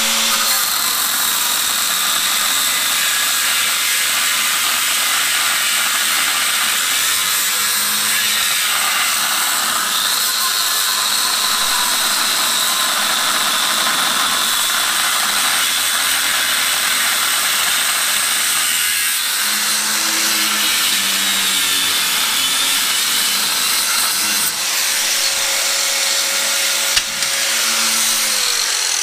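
Handheld power tool cutting through a hard steel mudflap bracket, running steadily with a loud, high-pitched grinding noise. Its motor winds down just before the end.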